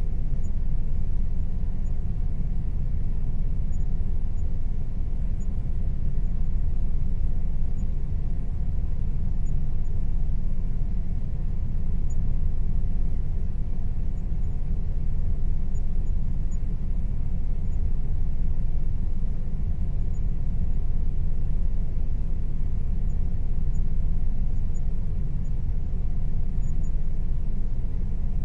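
Air conditioner running steadily: a low, even rumbling hum with faint steady tones above it and slow, gentle swells in loudness.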